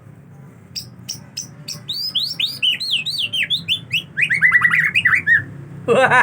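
Male white-rumped shama (murai batu) singing: a few sharp clicks, then a fast run of varied whistled notes, ending in a loud burst of notes.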